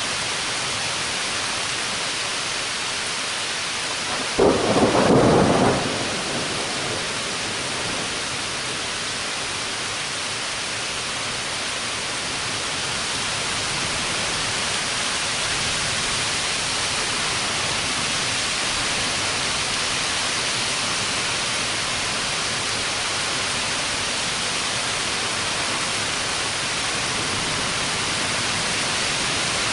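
Thunderstorm: heavy rain falling steadily, with one sudden loud clap of thunder about four seconds in that lasts over a second.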